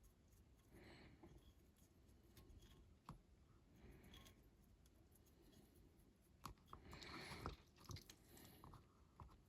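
Near silence with faint, light scratchy strokes and a few small clicks, as of a paintbrush working on a small diecast model car and the model being handled.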